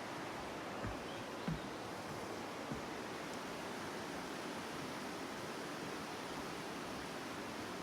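Steady rushing outdoor noise, with three soft low thumps in the first three seconds.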